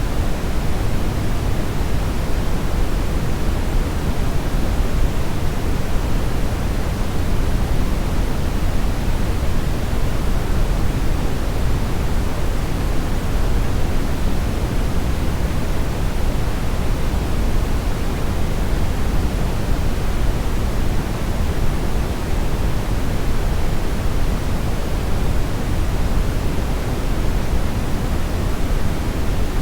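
Steady synthetic brownish noise: an even, unbroken hiss-rumble weighted toward the low end, without any events or changes.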